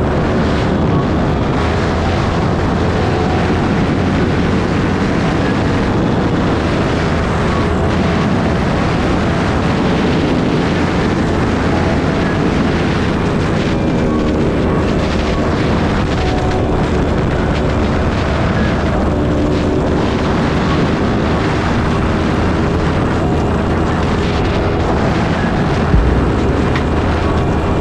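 Yamaha R1M's crossplane inline-four engine running at a steady speed on the move, under a heavy, steady rush of wind noise. There is a short thump near the end.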